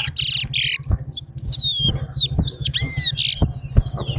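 Towa-towa (chestnut-bellied seed finch) singing in a song contest: a quick run of high whistled notes that slide up and down, broken by a few harsh buzzy notes, over a steady low hum.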